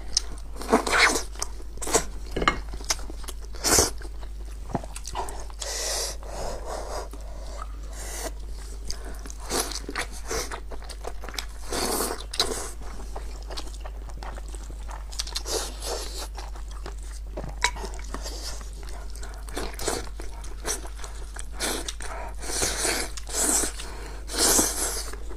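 Close-miked chewing and biting of boiled sheep's-head meat, a string of sharp mouth clicks and smacks with louder bursts of eating noise about a second in, midway and near the end.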